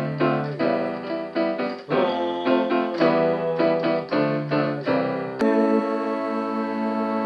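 Keyboard music: piano-sounding chords struck one after another in a quick rhythm. About five seconds in, after a click, a single chord is held.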